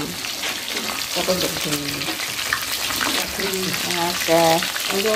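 Chicken pieces deep-frying in hot oil in a metal wok, sizzling steadily, with a metal spatula stirring and turning them. A person's voice sounds at times over the sizzle.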